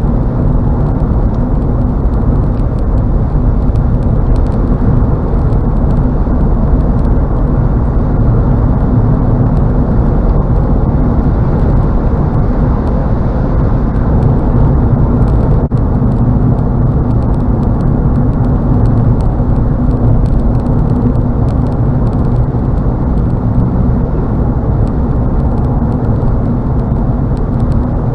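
Car interior road noise at highway speed: steady tyre and wind noise with a low drone from the car itself.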